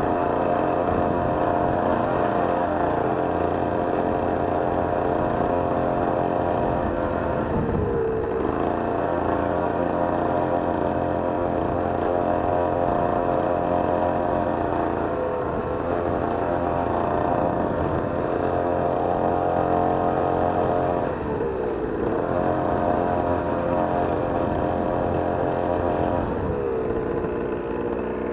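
Two-stroke dirt/pit bike engine running through a home-made muffler, holding steady revs. Its pitch dips and recovers four times, about every six to seven seconds.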